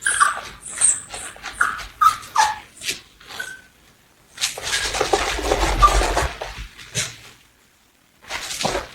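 Dog whining in a series of short, high-pitched whines, followed by a couple of seconds of scuffling noise.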